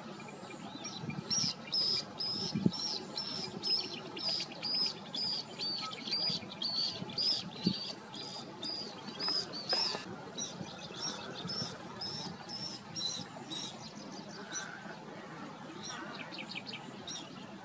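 A small bird calling a long run of short, high chirps, about two a second, then a looser scatter of chirps and quick trills, over a steady background hiss.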